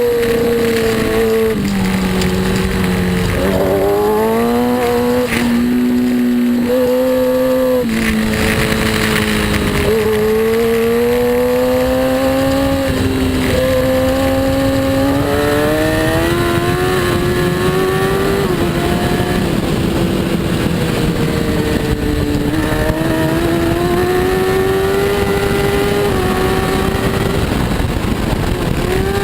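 Racing superbike engine under way, its pitch climbing slowly and stepping down several times as the throttle and gears change, over a steady rush of wind noise.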